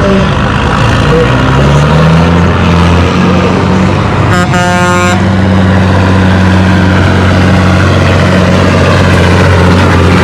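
Cab-over semi truck's engine pulling the sled under load, its pitch climbing over the first couple of seconds and then holding steady. A horn sounds briefly about four and a half seconds in.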